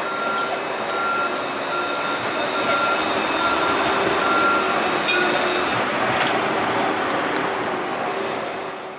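A CAF Urbos 3 tram running past, with a steady electronic beep repeating about twice a second that stops about five seconds in. The running noise grows louder after that.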